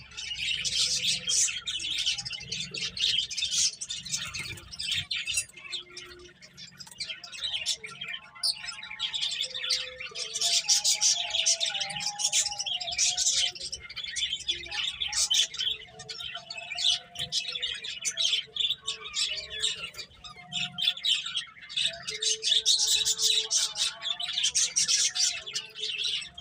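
Several finches chirping in quick, overlapping calls without a break.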